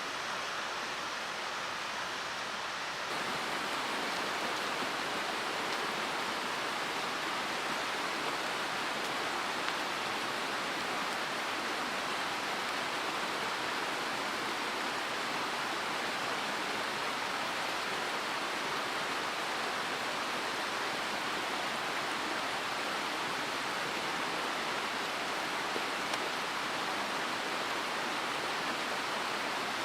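Mountain stream flowing, a steady rush of running water that grows a little louder about three seconds in.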